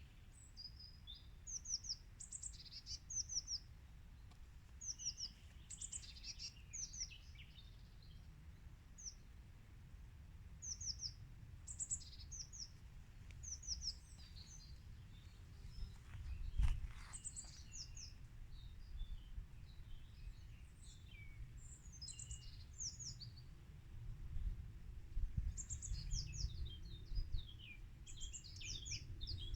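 Small songbirds chirping and calling in short repeated high notes, over a low rumble of wind on the microphone. A brief thump about halfway through.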